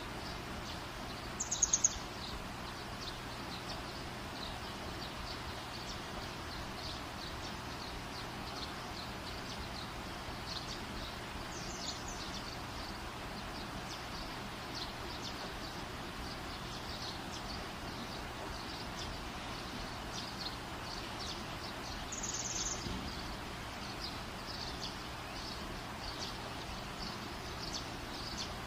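Birds chirping over a steady hiss, with two louder short trilled chirps, one about two seconds in and one about three-quarters of the way through.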